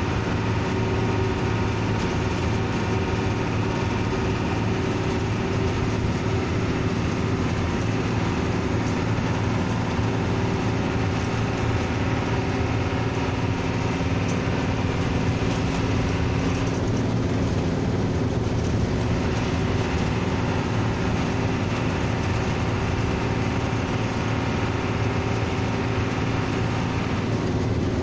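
Bus engine running steadily: a constant drone with a low hum, and the higher hiss easing briefly a little past the middle.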